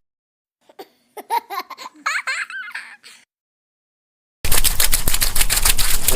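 Faint, brief laugh-like voice sounds, then a loud, fast rattle of clicks, about ten a second, starting about four and a half seconds in.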